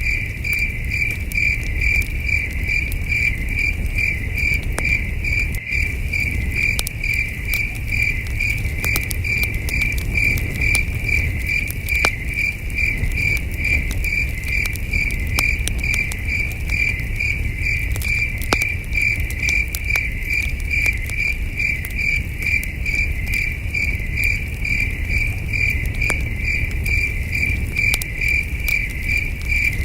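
Crickets chirping in a steady, even pulse, with a campfire crackling and popping here and there over a low rumble.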